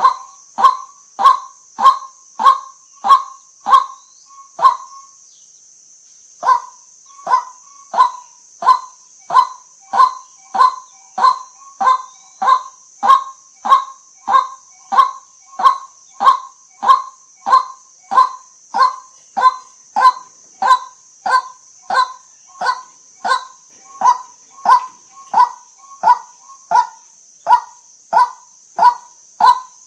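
White-breasted waterhen calling: a short honking note centred near 1 kHz, repeated evenly about one and a half times a second, with a break of about a second and a half about five seconds in before the series resumes. A steady faint hiss lies under the calls.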